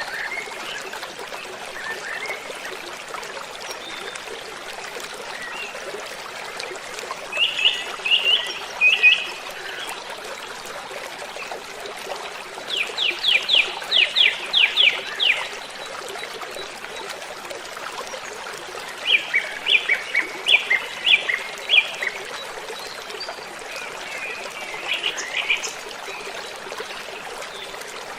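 Steady rush of a waterfall, with a bird singing over it in short phrases of quick repeated chirps, one phrase about every six seconds.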